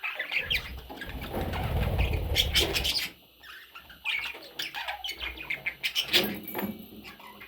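Pet budgerigars chirping, with a burst of wing flapping in the first few seconds.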